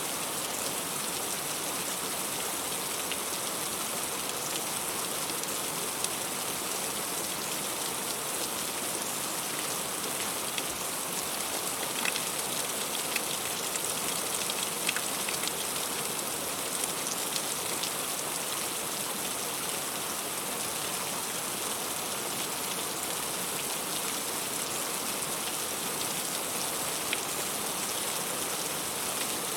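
Heavy rain falling steadily, a dense even hiss with sharp individual drop hits standing out now and then.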